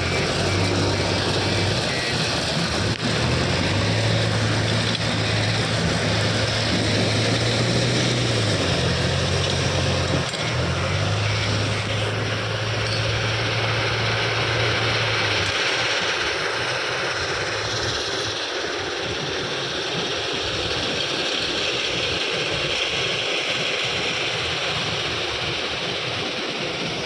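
Heavy machinery engine running steadily, with a low hum that shifts pitch in steps and stops about halfway through.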